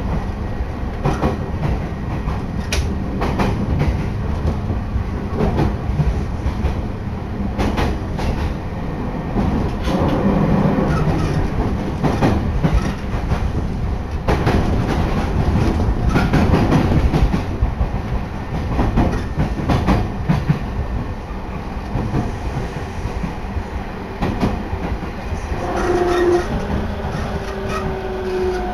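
Sobu Line electric train running on the rails, heard from inside the carriage: a steady rumble with wheels clacking over rail joints, and air rushing in past an open window. Near the end a steady whine joins in.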